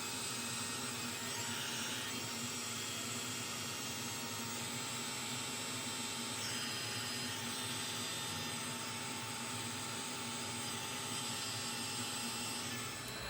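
Heat gun blowing steadily, shrinking heat shrink tubing over a small hinge; it shuts off right at the end.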